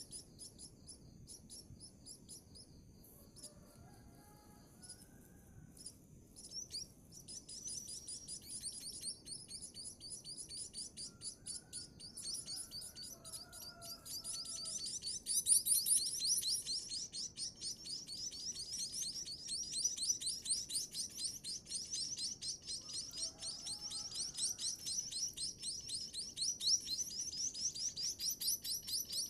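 Munia chicks begging for food with rapid, high-pitched chirps. A few scattered chirps at first build into a dense, continuous chatter from about seven seconds in.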